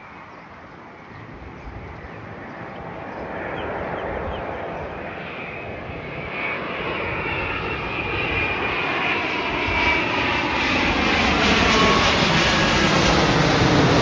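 Jet airliner approaching, its engine noise a broad rush that grows steadily louder through the whole stretch, with slowly sliding tones and a faint whine building in the second half.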